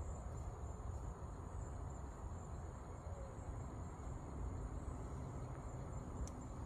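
Crickets trilling in a steady, unbroken high-pitched night chorus, over a low rumble.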